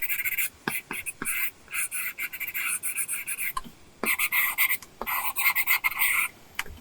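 Apple Pencil tip stroking on an iPad screen fitted with a paper-texture film: quick scratchy strokes with light tip taps. It comes in two runs, with a short pause about three and a half seconds in, and the strokes stop a little after six seconds.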